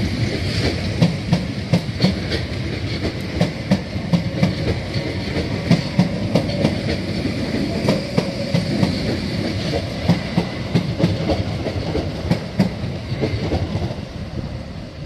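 A train passing along the platform, its wheels clicking over the rail joints in a rapid, uneven rhythm under a steady rumble, fading away near the end.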